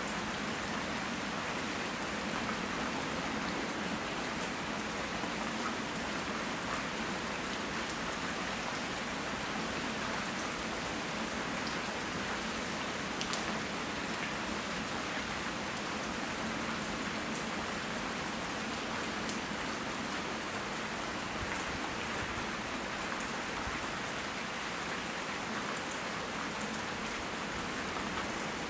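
Steady rain falling and pattering on surfaces, an even hiss with occasional faint drop ticks, recorded on a phone's microphone.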